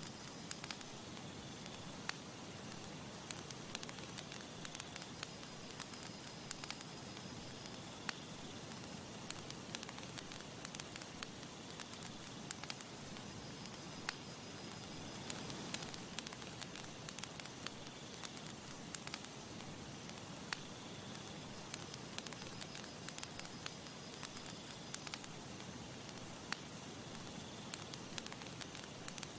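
Wood campfire crackling, with frequent irregular sharp pops over a steady soft hiss.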